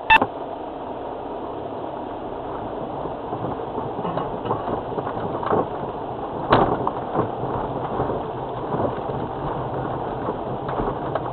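Off-road 4x4 driving a rough, wet track: steady engine and tyre noise, with occasional knocks and bumps from the vehicle, the sharpest just at the start and about six and a half seconds in.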